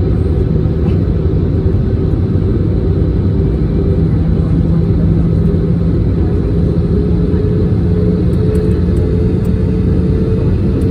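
Airbus A321 jet engines and airflow: a loud, steady rumble with a constant hum.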